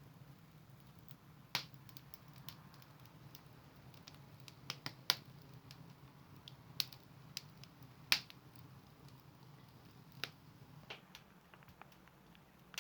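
Wood fire in a fireplace crackling, with sharp pops at irregular moments over a faint low hum.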